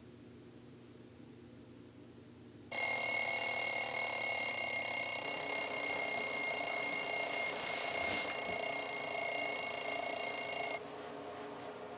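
Alarm clock bell ringing: a loud, continuous ring that starts about three seconds in and cuts off abruptly about eight seconds later.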